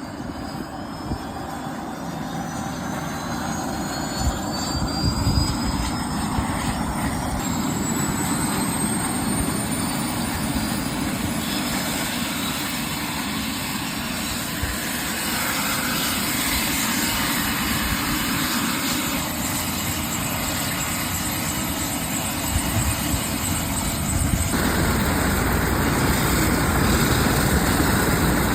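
Airbus H120 Colibri helicopter's turboshaft engine and rotors running, with a high turbine whine rising in pitch over the first ten seconds or so, then holding steady; the noise grows louder near the end.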